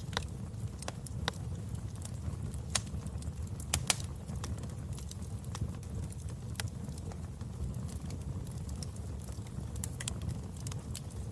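Wood fire burning in a fireplace: a steady low rumble of flame with irregular sharp crackles and pops, the loudest pop a little under four seconds in.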